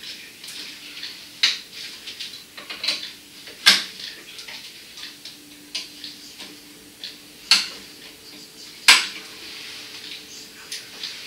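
Irregular sharp clicks and clinks of hard objects knocking together, four of them louder than the rest, over a faint steady hum.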